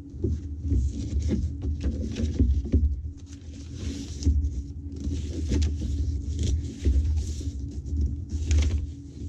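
Paper pages of a handmade junk journal rustling and crinkling in irregular bursts as they are turned and handled, over a steady low hum.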